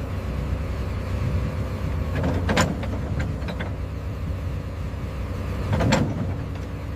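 Heavy construction machinery engine running steadily with a low rumble, with two short sharp noises, one about two and a half seconds in and one about six seconds in.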